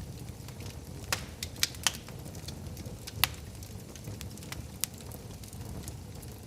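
Wood fire burning in a fireplace: a low steady rumble of flames with irregular sharp crackles and pops, the loudest cluster a little over a second in and a single sharp pop past three seconds.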